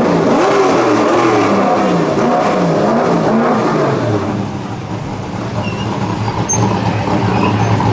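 Racing touring car engines revving hard on track, the pitch rising and falling several times in the first few seconds, then settling into a steady drone as the cars run on.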